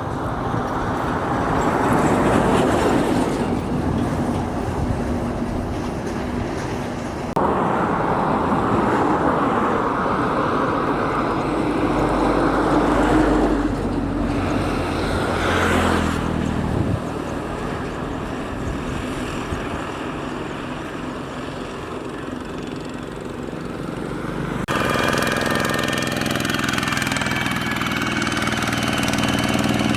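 Road vehicle noise: engines and tyre or wind rush that swell and fade and change suddenly about seven seconds in. Near the end a steady engine tone takes over.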